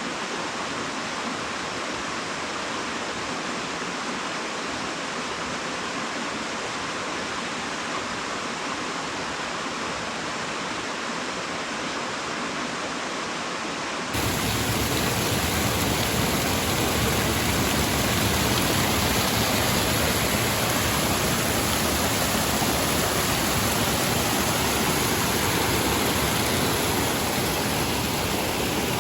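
Steady rush of flowing water, like a stream or waterfall, with no pauses. About halfway through it suddenly gets louder and hissier.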